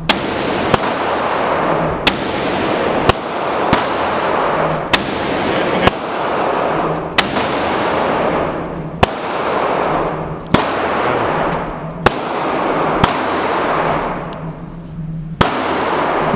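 Handgun shots: about a dozen sharp cracks fired at an uneven pace, roughly one a second with gaps of up to two seconds. Each crack is followed by a long ringing echo of the range, over a steady low hum.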